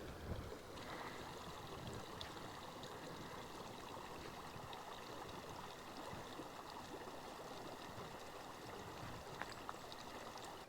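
Small mountain creek flowing and babbling steadily, a faint, even rush of water.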